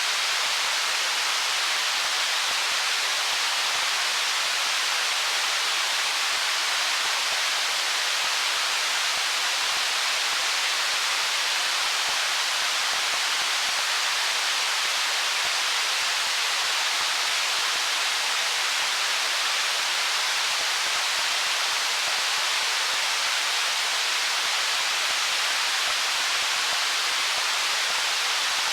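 Stream water flowing over stones: a steady, even rush with no separate splashes or drips, its sound mostly high and hissy.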